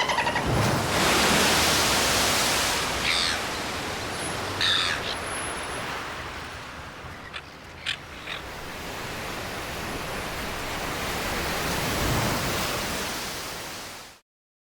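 Ocean surf washing in and out, with a gull calling twice in the first five seconds and a few faint clicks later; it fades out near the end.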